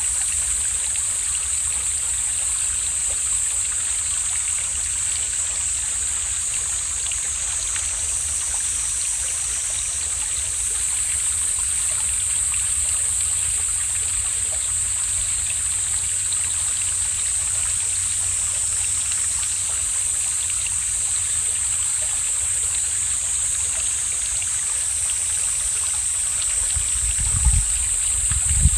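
Mountain valley stream flowing steadily, with a constant high-pitched hiss over the water. A low rumble swells near the end.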